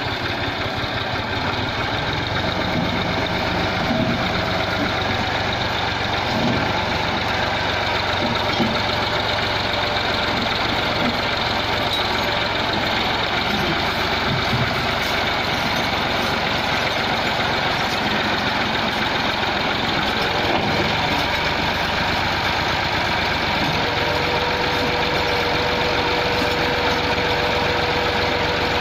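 Diesel tractor engine running steadily. A thin steady whine joins in near the end.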